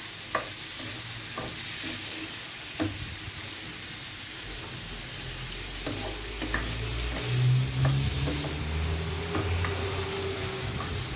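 Shrimp sizzling in hot oil in a frying pan over high heat, seared fast so they don't give off their water. A utensil clicks against the pan now and then, and a low hum swells around the middle.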